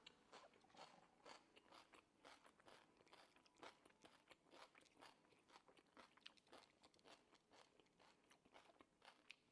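Faint chewing of food, a quick run of small crunches and wet mouth clicks, a few a second and irregular.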